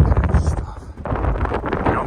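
Wind buffeting the microphone: a loud, gusty rumble that eases off about halfway through and picks up again.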